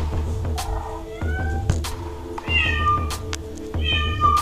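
Cat meows: three drawn-out calls falling in pitch, over background music with a pulsing low beat and sharp clicks.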